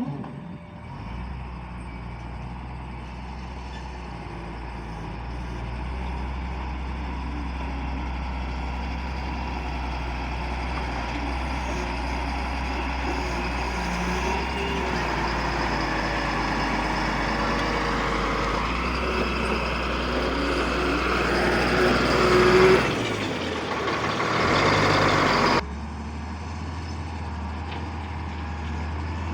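Heavy road-leveling machine's engine running steadily under work, with a broad mechanical rumble that grows louder through the middle and peaks a little after twenty seconds. The sound drops abruptly near the end.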